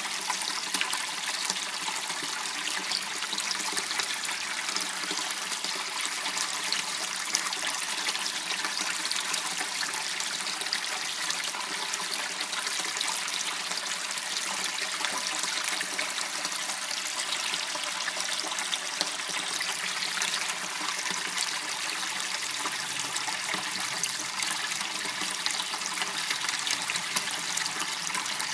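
Water running and trickling steadily in a small channel, a constant splashing hiss without letup.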